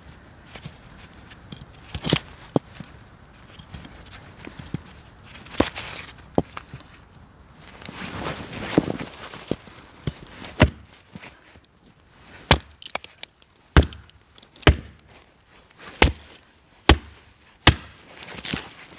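Firewood being chopped: a series of sharp wooden blows, spaced out at first, then coming about once a second through the second half.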